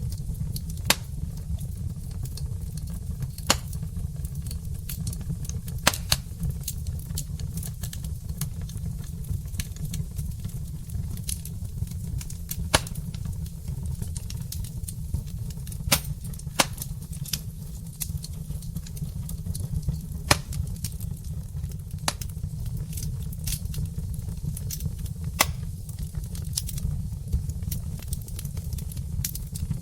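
Wood fire crackling in a fireplace: irregular sharp pops, a loud one every second or two among many fainter ticks, over a steady low rumble of burning.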